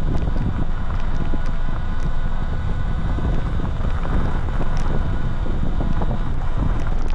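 Electric dirt bike riding a dirt road: wind rumbles over the handlebar-mounted microphone, with a clatter of small knocks from the tyres and bike over rough ground and a faint steady motor whine underneath.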